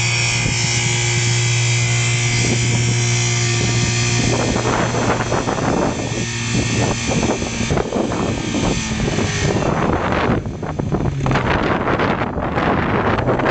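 Mazda 626 engine held at a steady high rev, then about four seconds in its even note breaks up into a rough, irregular clatter that continues unevenly. The engine is being run hard until it fails.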